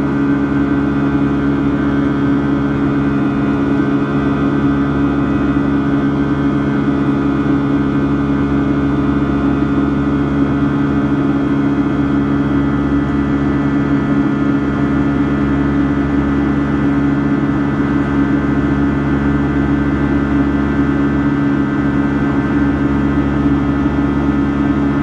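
Boeing 757-200's Rolls-Royce jet engines running steadily, heard inside the cabin as a constant drone with a cluster of steady humming tones over a low rumble.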